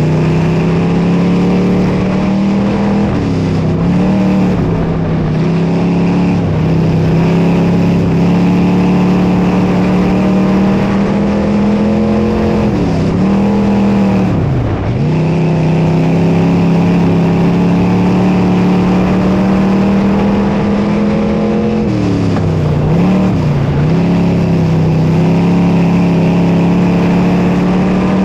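Dirt modified race car engine running hard at high revs. Its pitch dips three times as the throttle is lifted, then climbs back.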